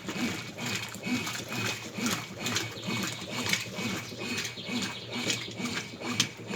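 Brastemp BWC10A 10 kg top-loading washing machine agitating: the motor's hum rises and falls with each back-and-forth stroke, about twice a second, with water sloshing in time.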